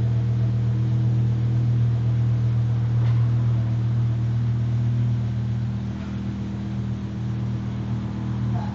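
BMW E60 M5's V10 engine idling steadily, heard at the exhaust, with a strong low hum; it dips slightly in level past the middle.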